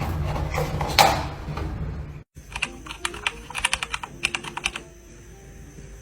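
A low rumble with one loud sharp thump about a second in, which cuts off abruptly. Then comes a quick run of light clicks and taps for about two seconds.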